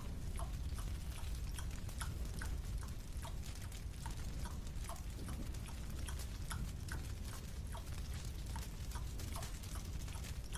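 Small wet clicks and smacks of chewing a marshmallow, coming several times a second at uneven spacing, over a steady low rumble.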